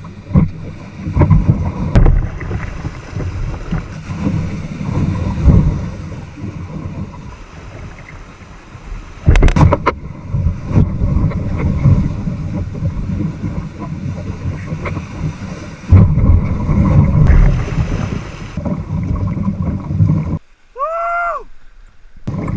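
A kayak running rapids: rushing, churning water and splashing, with wind buffeting the microphone and heavy thumps now and then, two of them loud, about ten and sixteen seconds in. Near the end the water noise drops away briefly and a short pitched call rises and falls.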